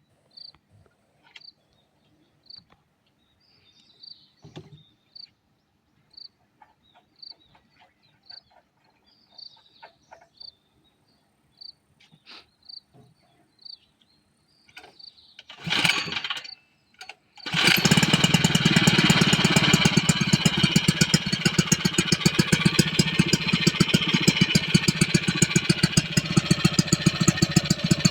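Frogs croaking at a regular pace, then about 16 seconds in the Koshin SEV-25FG engine pump's small engine is pull-started. It catches a second later and runs steadily with a rapid firing beat.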